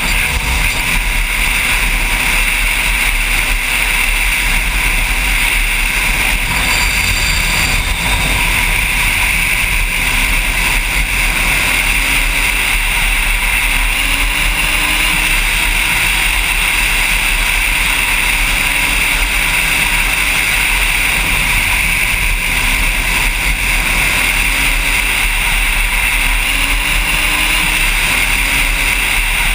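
Motorcycle riding at speed: a steady rushing noise, with the engine's pitch rising again and again as it accelerates.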